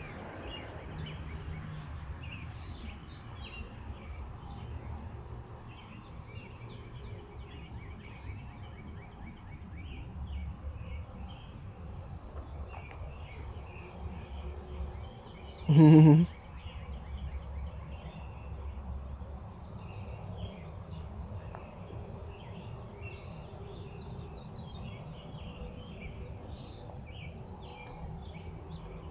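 Steady outdoor background noise with scattered faint bird chirps. About halfway through, one brief loud vocal sound with a low pitch.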